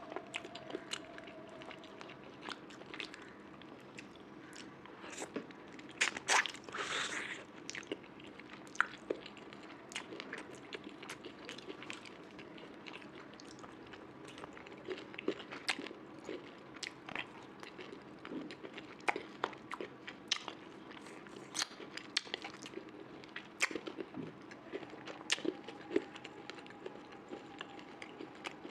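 Close-miked mouth sounds of someone eating curry with rice and fried meat: chewing, lip smacking and wet clicks at an irregular pace, with a louder cluster about six seconds in. A faint steady hum lies underneath.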